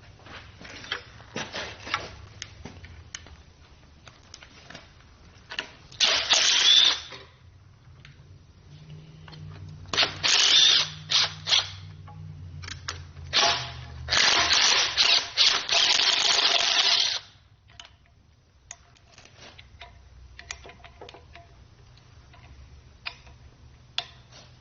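A power tool running in several short bursts, the longest about three seconds, with clicks and clatter of tools and parts between: bolts being run off the engine block, most likely to take off the oil pump.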